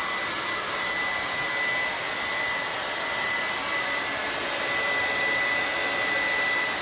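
Hand-held hair dryer (blow dryer) running steadily on one setting: an even rush of air with a thin high whine over it.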